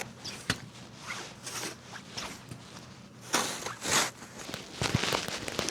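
Footsteps in deep snow, a handful of uneven steps.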